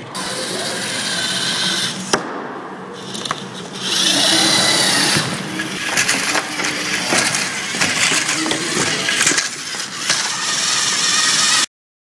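LEGO EV3 robot running its missions: motors whirring with gear noise, and plastic attachments clicking and clattering against the mission models. The sound cuts out abruptly near the end.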